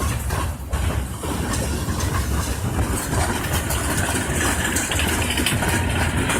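Norfolk Southern freight train rolling past, a steady low rumble with a dense run of clicks from the wheels on the rails.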